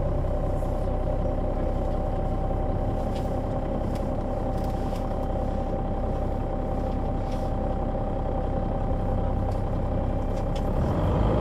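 Solaris Urbino 12 III city bus's diesel engine running steadily, with a steady whining tone over it that fades out near the end.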